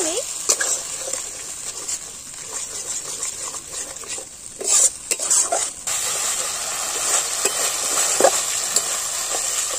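Spice masala with whisked sour yogurt frying and sizzling in a metal karahi, stirred and scraped with a flat metal spatula. There is a cluster of sharper scrapes and knocks against the pan about five seconds in.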